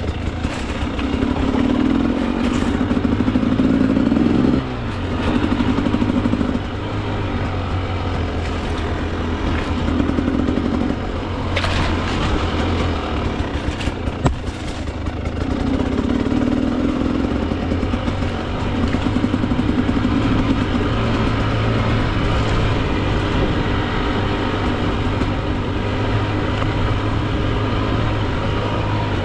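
Two-stroke dirt bike engine riding single track, the throttle opening and closing in bursts of a second or two. There are a couple of sharp knocks near the middle.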